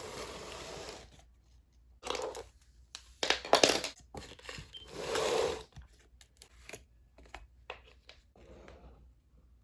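Close-up handling of paper and small objects: several short rustles and scrapes, the loudest about three and a half seconds in, followed by scattered sharp clicks and taps.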